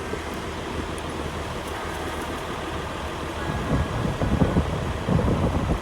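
Strong wind buffeting the microphone over a steady low rumble, the gusts growing harder from about halfway through.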